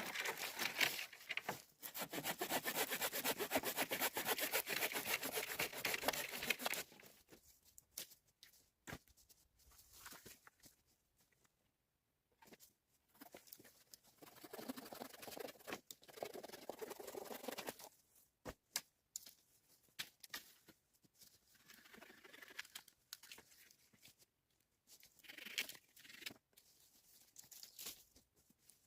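Rapid back-and-forth scraping on wood for about five seconds near the start, then scattered bouts of scraping and rustling with a few sharp knocks.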